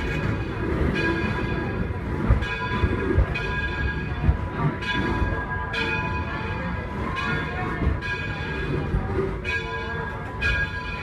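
A steam locomotive's bell ringing steadily, about one stroke a second, over the low rumble of the moving train.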